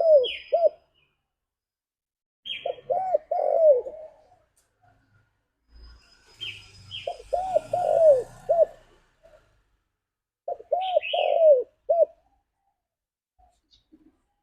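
Spotted dove (tekukur) calling: four phrases of about four arched coos each, one phrase every three to four seconds, each with a short higher note near its start.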